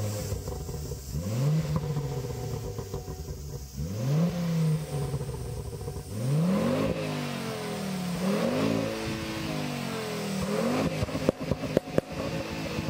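Ford Focus ST's turbocharged five-cylinder engine, stationary, revved about five times roughly two seconds apart, each rev rising in pitch and dropping back to idle. A few sharp clicks near the end.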